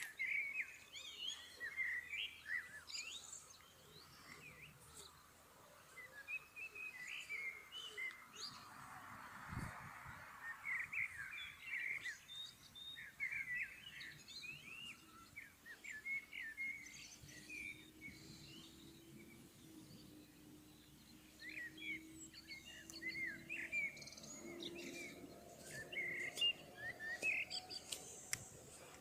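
Small birds chirping and twittering throughout in many short, quick notes. About a third of the way in comes a brief breathy rush with a low thump, and through the second half a faint, steady low hum rises slowly in pitch.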